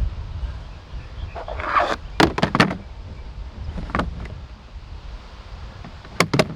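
Skateboard in a concrete pool: a brief scrape, then a quick run of sharp clacks from the board and trucks, another clack about four seconds in and two more near the end.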